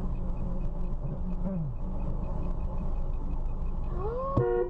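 Steady low rumble of a car's engine and road noise, then near the end a car horn starts sounding with a steady pitched tone.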